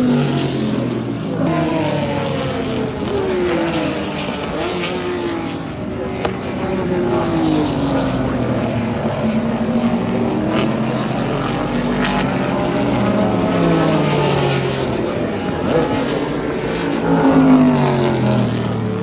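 Several historic IMSA GT-era race cars passing at speed one after another. Each engine note falls in pitch as the car goes by, and the loudest pass comes near the end.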